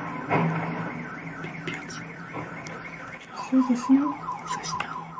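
Car alarm sounding, a fast repeating chirp that switches to a lower chirping pattern about three seconds in, over a steady low hum.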